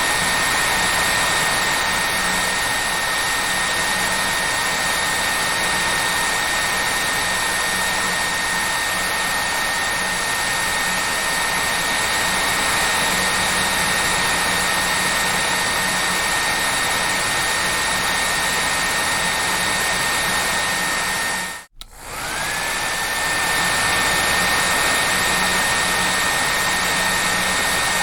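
Hair dryer running steadily: a rushing blow of air with a high motor whine. About 22 seconds in it cuts out for a moment, then comes back, the whine rising as the motor spins up to speed again.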